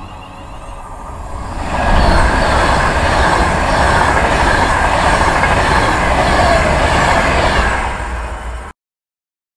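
Virgin Trains Class 390 Pendolino electric train passing close by at speed: a rising rush of wheel and air noise that holds loud and steady for about six seconds, then cuts off suddenly near the end.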